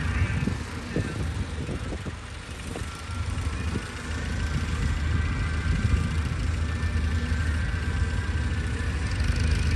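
An engine running with a steady low rumble, with a few short knocks in the first few seconds.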